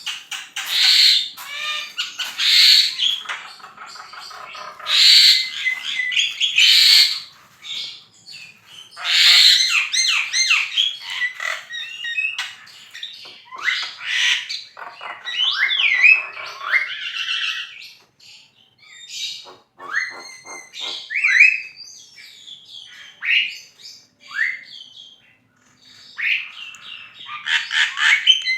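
Javan myna (jalak kebo) singing actively: a varied run of harsh chattering notes, squawks and short rising whistles, with brief pauses between phrases.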